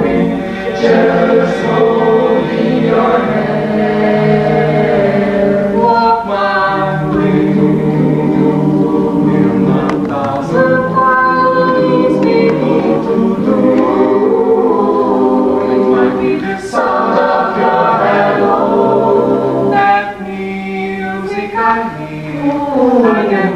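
Mixed-voice madrigal choir singing a cappella, several voice parts holding chords at once, with short breaks between phrases near the end.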